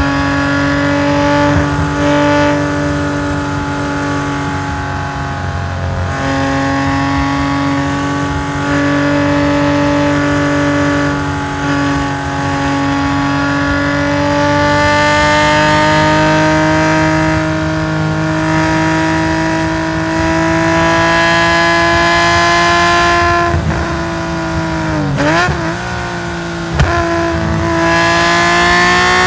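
Race-tuned Nissan S20 twin-cam straight-six of a Hakosuka Skyline GT-R through a stainless equal-length exhaust, pulling hard under load with its pitch climbing slowly over long stretches. About three quarters of the way through it drops sharply with short quick revs, as on downshifts under braking, then pulls up again near the end.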